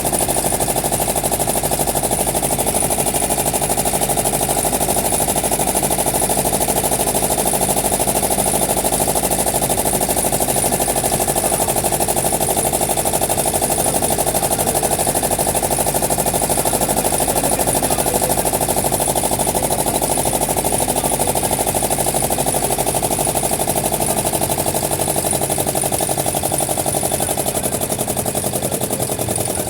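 A wooden boat's inboard engine running steadily close by, a rapid, even chugging with no change in pace.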